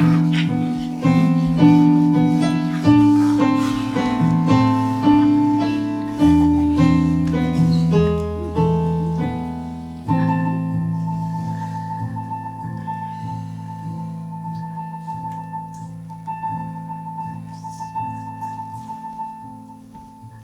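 Keyboard music: slow piano chords in the first half, then a softer passage of quickly repeated high notes over held low chords, fading away near the end.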